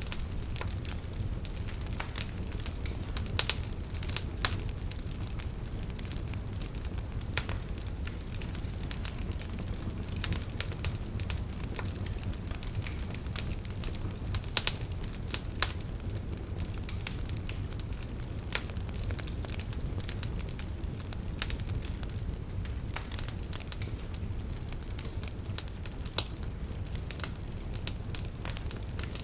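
Wood fire burning in a fireplace: irregular crackles and sharp pops over a steady low rumble, with a few louder pops among them.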